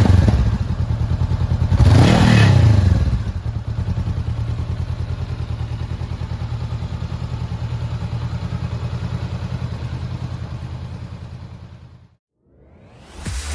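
Honda CBR400R's parallel-twin engine blipped, with a short rev about two seconds in, then settling to a steady idle that fades away near the end.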